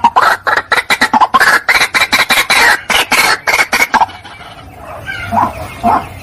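White-breasted waterhen calls played as a lure: a fast run of loud, harsh, repeated calls, several a second, that breaks off about four seconds in and is followed by a few lower, softer calls.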